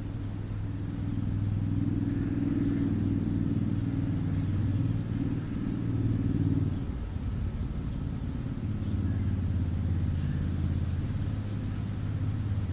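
A motor vehicle's engine running, a low steady hum that eases off slightly about seven seconds in.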